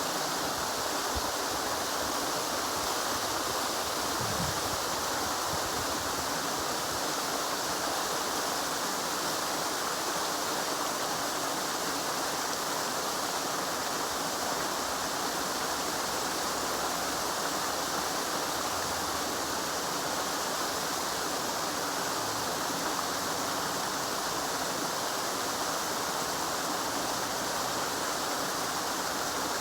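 River water flowing and rushing over stones, a steady, even rush.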